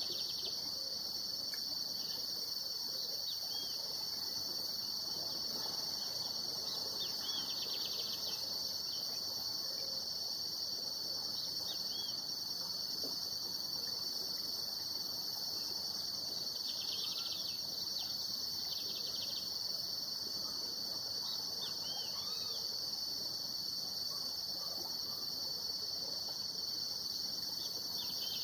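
A steady, high-pitched chorus of insects, with a few short bird chirps scattered through it.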